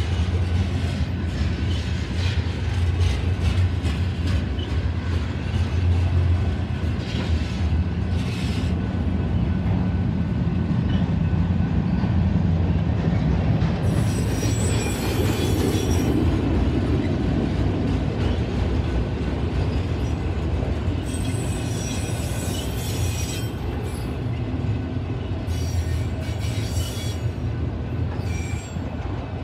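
Freight train cars rolling past close by: a steady low rumble of steel wheels on rail with rapid clicking over rail joints. From about halfway on come several bursts of high-pitched wheel squeal.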